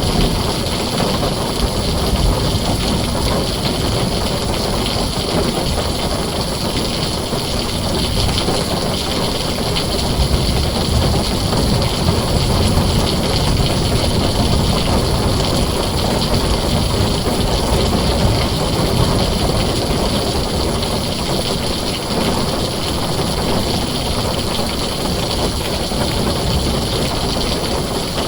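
Heavy rain falling steadily on a tin roof, a dense even hiss with a deep rumble underneath.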